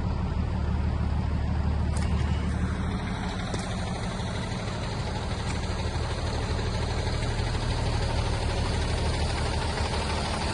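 2019 International DuraStar 4300 box truck's engine idling steadily.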